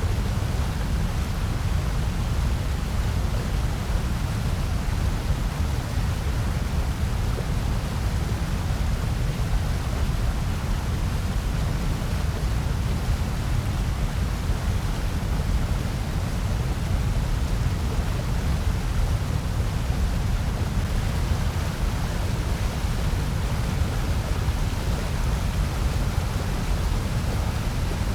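Steady, unchanging electronically generated noise of the white-noise kind, used for sleep and masking. It is a constant rushing hiss with most of its weight in a deep low rumble.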